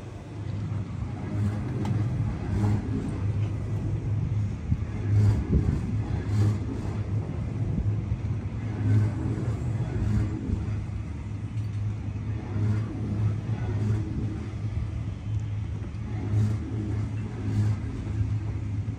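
Train running with a steady low rumble and a deep hum that swells roughly once a second.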